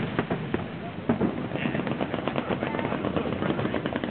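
Fireworks going off in a rapid, irregular string of sharp pops and crackles, thickening from about two seconds in.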